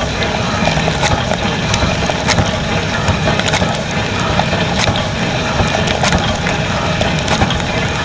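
Dishwasher running a wash cycle: a steady rush of spraying water with irregular sharp ticks and knocks.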